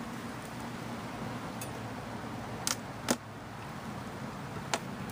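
Beehive being opened: three sharp clicks or knocks of hive parts, the loudest about three seconds in, over a steady low hum of honeybees.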